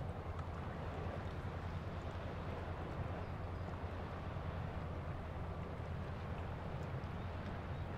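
River ambience at a breakwater: a steady low rumble from a passing river ship's engine over the wash of water.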